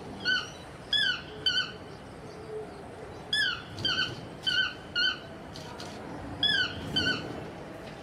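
A bird calling with short, squeaky pitched notes, each dropping in pitch and some followed by a brief flat note, repeated about every half second in runs with short pauses between.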